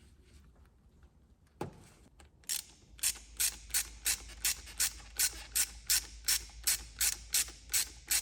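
Ratchet tool clicking in a steady run, nearly three clicks a second, while a worm-drive hose clamp is tightened. A single sharp click comes first.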